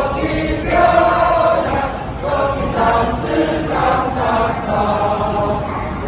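A choir singing, many voices together holding notes of about half a second to a second each.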